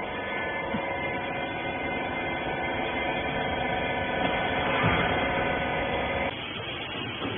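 Hydraulic rag baler's electric motor and pump running with a steady hum, which cuts off suddenly about six seconds in.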